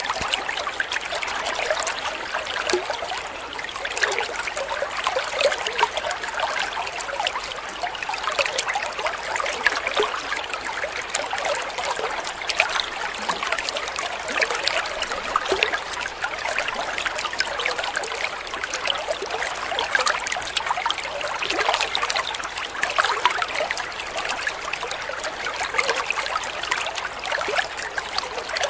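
Shallow stream water trickling and babbling steadily, with many small splashes.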